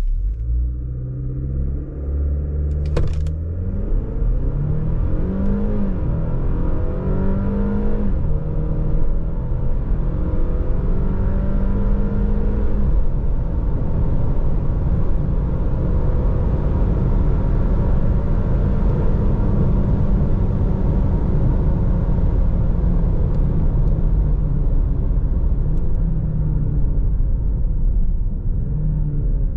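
Genesis GV70's 2.5-litre turbo four-cylinder engine accelerating hard, its pitch climbing and dropping back at several upshifts through the first dozen seconds. It then settles into steady running under a low road rumble. A short click comes about three seconds in.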